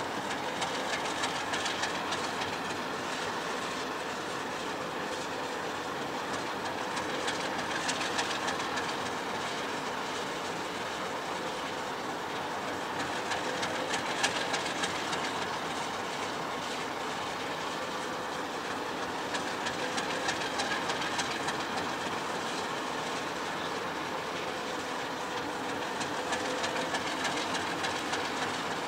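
Train on the rails: a steady rumble with a faint steady whine, and groups of wheel clicks over rail joints coming back about every six seconds.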